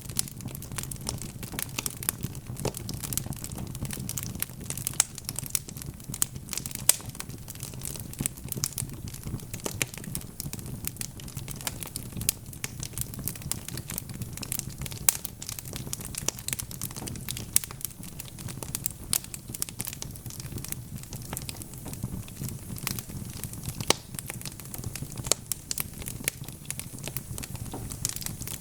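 Wood fire crackling and popping in a fireplace, with many small sharp irregular snaps over a steady low rumble of the flames.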